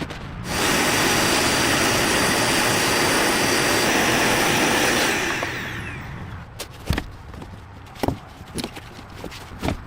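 A motor-driven power tool or blower runs with a loud rushing hiss and a steady high whine for about four and a half seconds. It then winds down, its pitch falling as it slows. A few sharp knocks follow near the end.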